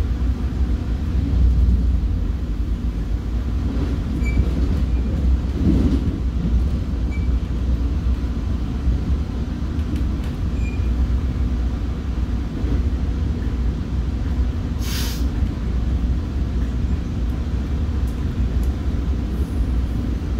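Commuter train running on the rails, heard as a steady low rumble from inside the passenger car, with a few faint squeaks. A short hiss of air comes about three-quarters of the way through.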